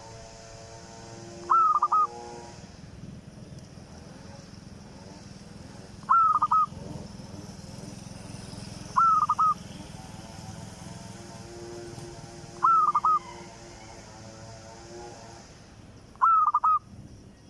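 A newly acquired pet bird calling again and again, about every three seconds. Each call is a quick group of three or four short, clear notes, much louder than the steady background.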